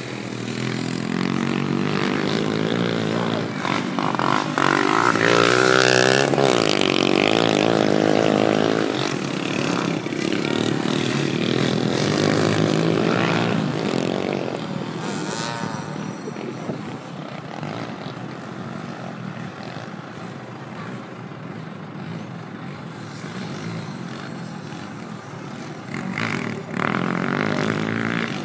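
Motocross dirt bike engines revving and changing pitch as they pass, loudest in the first half and fading away; another bike goes by briefly near the end.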